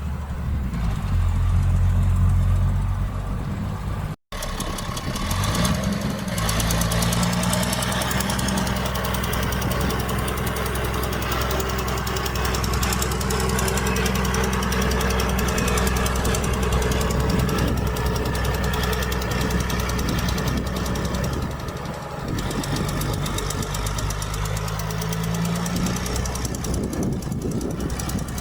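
Heavy diesel engine of earthmoving machinery running hard and steady, with a brief cut about four seconds in and the engine revving up shortly after, then again near the end.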